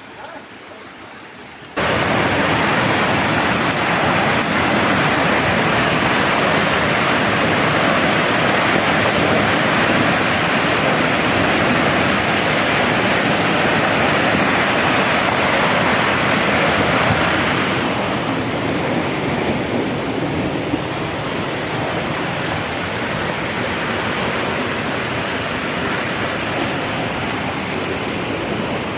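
Loud, steady rush of water in heavy rain. It starts abruptly about two seconds in, after a quieter stretch, and eases a little past the middle.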